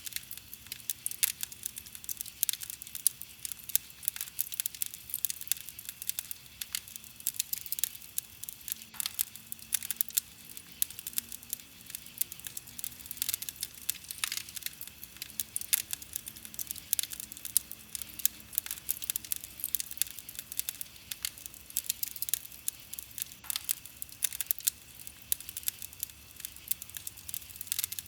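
Wood campfire crackling, with a dense, irregular run of sharp pops and snaps from the burning wood.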